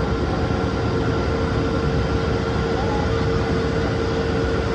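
A steady mechanical drone with a constant hum running at an even level.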